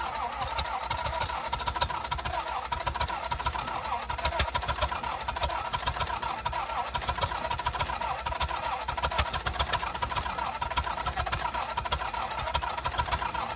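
Lincoln SA-200 welder's engine on a cold start in −20 weather: a steady, continuous mechanical run of rapid pulses with no break.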